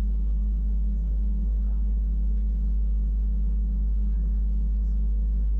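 Wengernalp Railway electric rack-railway train running, a steady low rumble and drone with no change in pace.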